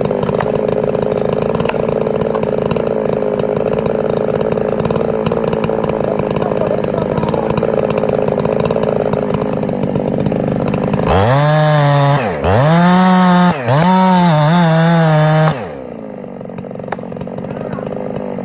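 Two-stroke chainsaw cutting wood under load with a steady, lower engine note. About two-thirds of the way in it revs up high, dips briefly twice, then drops back down and runs quieter near the end.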